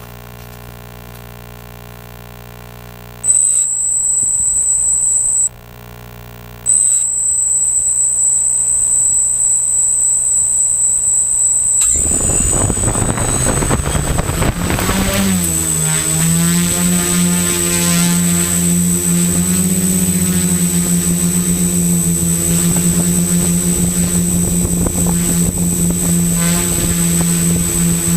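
Electric motors and propellers of an XAircraft X650 Pro V4 quadcopter spinning up about twelve seconds in, rising in pitch for a few seconds, then running at a steady pitch. A loud, steady, high-pitched whine starts about three seconds in, breaks off briefly, and continues over the motor sound.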